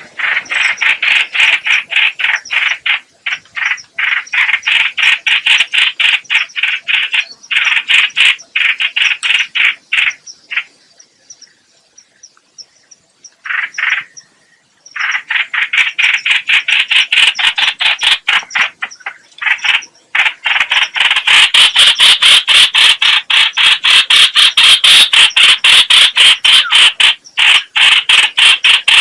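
Trao trảo (hoành hoạch) bird calling, played as a lure call: long runs of rapid, loud chattering notes. The calls pause for a few seconds about ten seconds in and resume near fifteen seconds.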